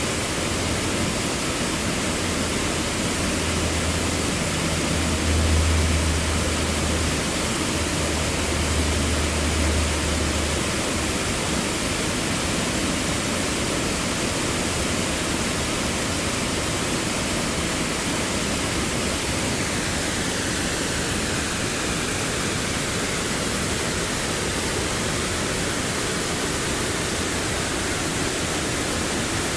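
Waterfall roaring: a steady, loud rush of falling water, with a deeper low rumble swelling for a few seconds about five seconds in.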